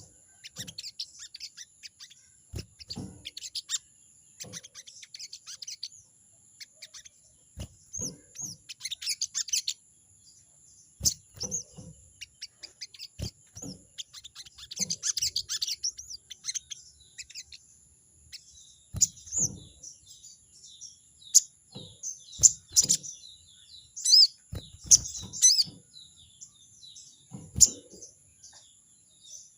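Chestnut-backed scimitar babbler (sogon) giving rapid, harsh chattering calls in repeated bursts, with a few curved whistled notes near the end. This is the bird calling out a rival.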